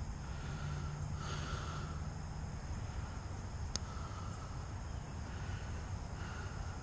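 Quiet outdoor background: a steady low rumble of wind on the microphone with faint on-and-off high chirping, and one sharp click a little after the middle.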